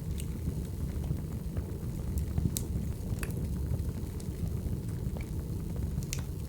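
Wood fire burning: a steady low rumble of flames with sharp, scattered crackles and pops from the burning logs.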